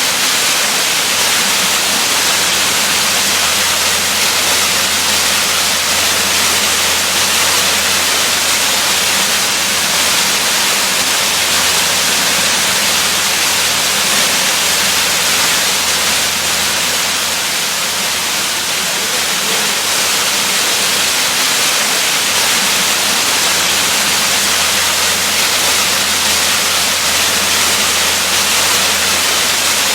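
Waterfall: a steady, even rush of falling water with a low rumble beneath, unchanging throughout.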